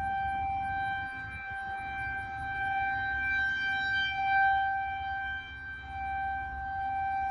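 An unexplained steady droning tone from the sky, held at one pitch with overtones, like a distant horn. It swells and fades a little in loudness over a low background rumble.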